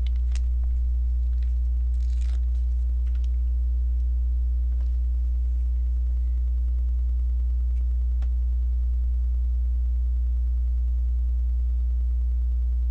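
A steady low electrical hum, the loudest sound throughout, with a few faint clicks and a brief rustle of plastic Lego pieces being handled and pressed together.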